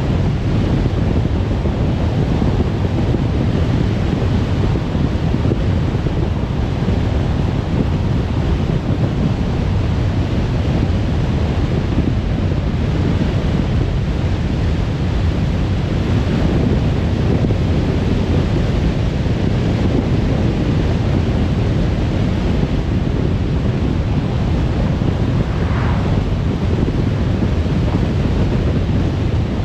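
Steady road and wind noise of a car driving at speed, a constant low rush of tyres and air.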